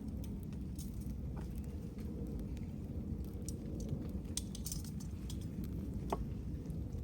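Small campfire of paper napkins and wet wood catching, with scattered crackles and pops over a steady low rumble; a sharper pop comes about six seconds in.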